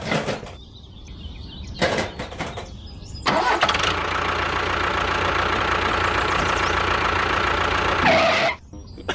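A small engine, cranked in two short bursts, then running steadily for about five seconds before it cuts off near the end.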